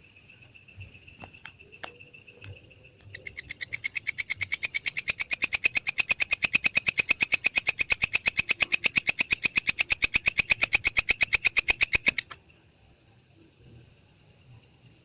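Singing insect, a katydid-type belalang, giving a rapid, even, high-pitched trill of clicks, about nine a second. It starts about three seconds in, grows louder over the first second and cuts off suddenly near the end, with faint high thin notes before and after.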